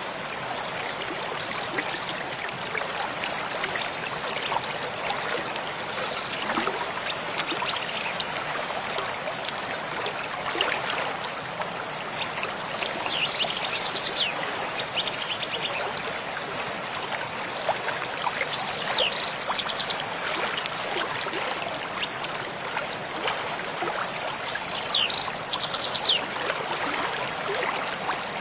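A mountain stream babbling steadily over rocks, with small splashes throughout. A songbird sings three short rapid trills in the second half.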